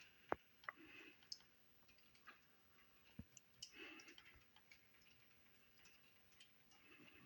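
Near silence with a few faint, sharp clicks and ticks from handling a plastic motor-oil bottle and funnel while oil is poured into the engine; the loudest click comes about a third of a second in.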